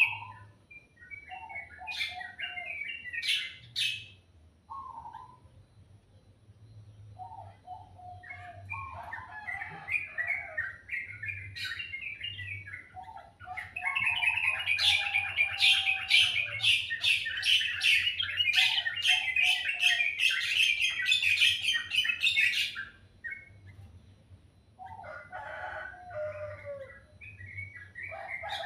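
Songbird singing varied warbling phrases separated by short pauses. In the middle it breaks into a long, loud run of rapid sharp notes lasting about nine seconds.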